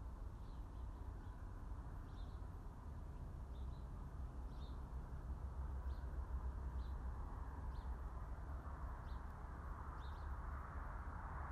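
A small bird chirping, short high chirps about once a second, over a steady low rumble.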